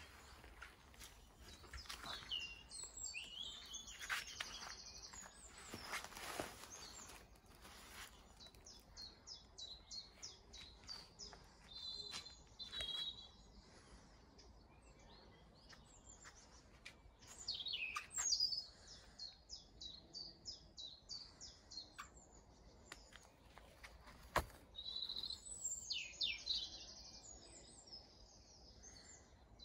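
Small garden birds singing and chirping in repeated quick trills, with a few faint knocks or clicks now and then.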